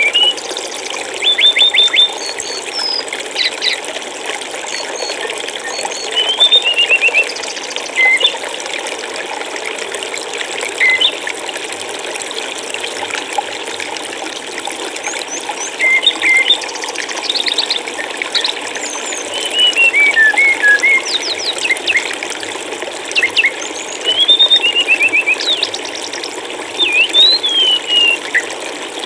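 Steady rushing of flowing stream water, with small songbirds calling over it in short chirps, whistled notes and quick trills that come and go throughout.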